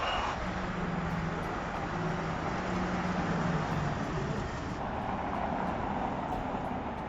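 Electric Volkswagen ID. Buzz van driving, heard as a steady rush of tyre and wind noise with a faint low hum. It cuts off abruptly near the end.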